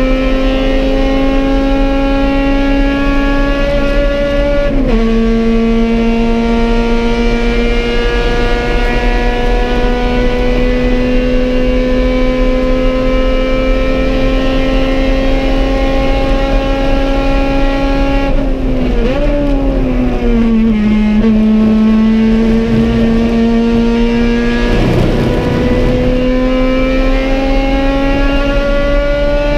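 B18-powered Honda Civic EG race car engine, heard from inside the cockpit, pulling hard: the revs climb, drop sharply on an upshift about five seconds in, then climb slowly for a long stretch. Past the middle the revs fall and waver as the car slows, then climb again before falling off near the end, with a brief rough rumble late on.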